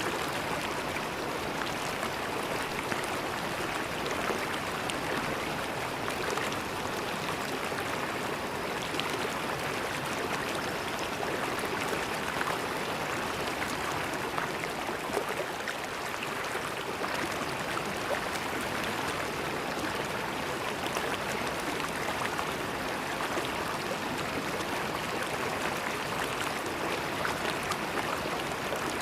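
River water flowing steadily over rocks, a continuous rushing with fine splashing and gurgling.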